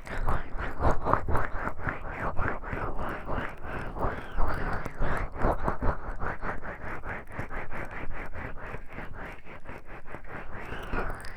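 Oiled hands massaging close to a binaural microphone: quick, even rubbing strokes, about four or five a second, with a slick, wet friction sound.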